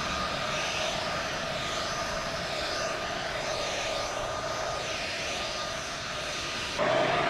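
Leaf blower running steadily with a whine over a hissing rush of air, getting louder near the end.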